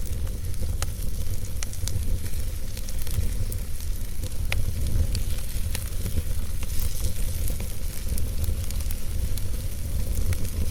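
Wood logs burning in a fireplace, crackling with scattered sharp pops over a steady low rumble of the fire.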